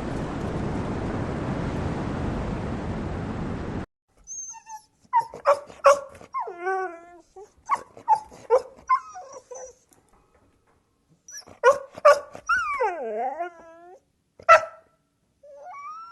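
A steady rushing noise, like wind or surf, runs for the first four seconds and cuts off abruptly. Then a canine whimpers and yips in short, high cries, some of them sliding down in pitch, with pauses between.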